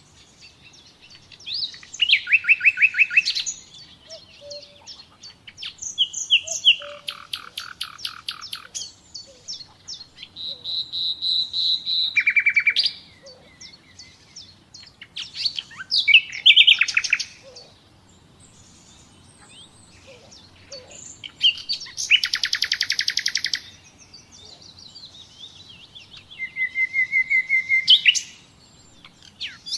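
Nightingale singing: about seven varied phrases, each a couple of seconds long, with short pauses between them. The phrases mix fast runs of repeated notes, held whistles and sharp rising notes.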